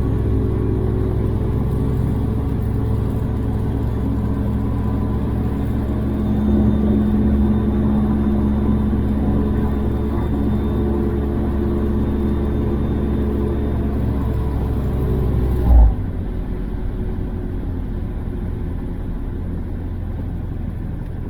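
Gyrocopter engine and pusher propeller running steadily with a low, even drone. About 16 seconds in, a brief thump, and the sound drops to a quieter, plainer rumble.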